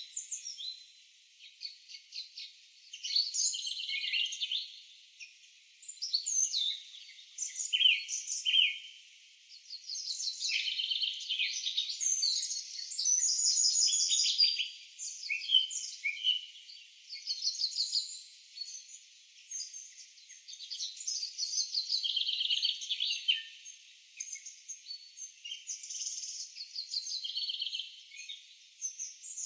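Several songbirds chirping and trilling over one another, a high, thin-sounding chorus of rapid trills and short calls that swells and fades in bursts.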